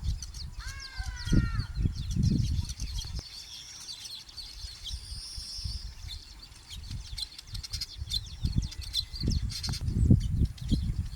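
A colony of weaver birds chattering and chirping rapidly and continuously at their nests, with a short harsher call about a second in. Bursts of low rumble come and go, in the first few seconds and again near the end.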